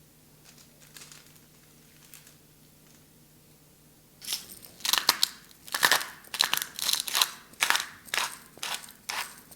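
Dry crinkling and crunching: a quick run of short rustles starting about four seconds in, after a nearly quiet start with a few faint ticks.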